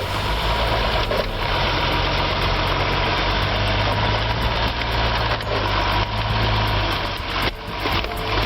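Tractor's diesel engine running steadily at low speed, with a dip and a few knocks near the end.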